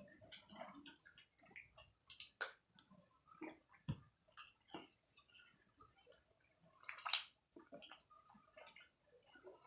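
Close-miked eating of juicy momos: wet chewing, slurping and lip smacks in short irregular bursts, with two louder wet slurps, one about two and a half seconds in and one about seven seconds in.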